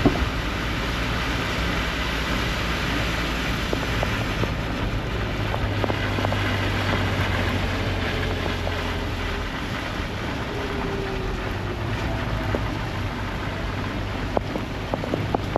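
A vehicle engine running steadily under a hiss of wind and rain, with scattered small ticks near the end.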